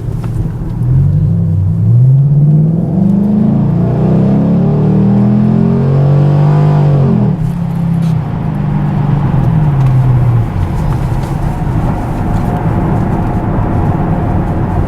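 Chevrolet Camaro SS V8 through an MRT stainless cat-back exhaust with H-pipe, accelerating hard onto a highway. The revs climb, drop back at gear changes, then settle toward a steady cruise.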